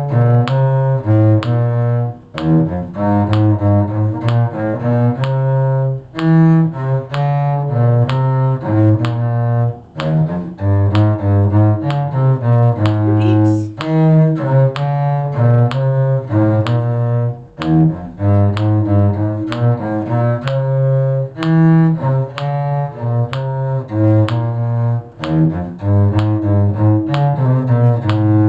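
Bowed string music led by a low cello line, playing a quick tune in short notes, phrased in groups of about four seconds with brief breaks between phrases.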